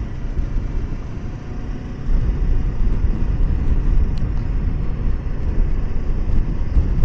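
Wind buffeting the microphone over a Kawasaki Versys 650 running on the road. The low rumble of the wind grows louder about two seconds in.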